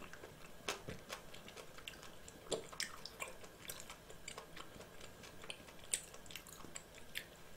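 Quiet chewing: scattered soft clicks and smacks from a mouth close to the microphone.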